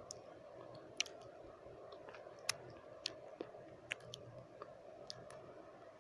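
Close-miked wet mouth sounds: irregular sharp tongue and lip clicks, about seven in six seconds, over a steady hiss of white noise.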